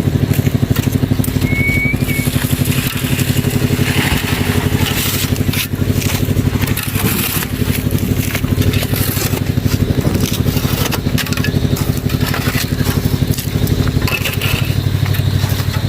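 Engine-driven concrete mixer running steadily, with gravel and wet concrete churning and scraping in the drum.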